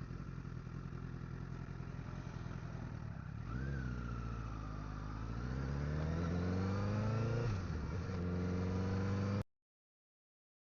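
Honda CBR1000RR's inline-four engine running at low revs, then rising in pitch as the bike accelerates, with a brief dip like a gear change about 7.5 seconds in. The sound cuts off abruptly to silence about 9.5 seconds in.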